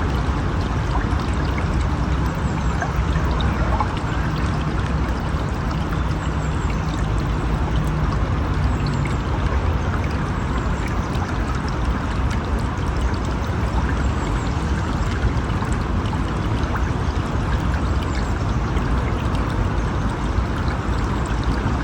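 River water flowing steadily, a dense, even rush of moving water.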